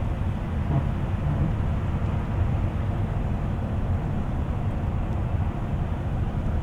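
Steady low rumble of a moving bus, its engine and road noise heard from inside the cabin.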